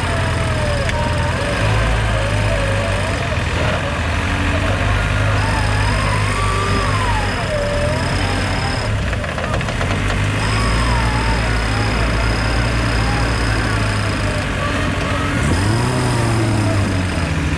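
An off-road 4x4's engine runs steadily, revving up briefly near the end. A higher wavering tone comes and goes above it.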